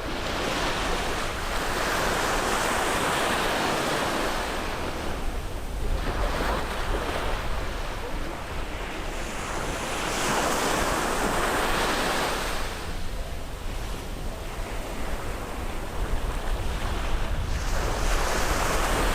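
Ocean waves breaking and washing up on a beach, in three swelling surges about seven to eight seconds apart, over a steady low rumble of wind on the microphone.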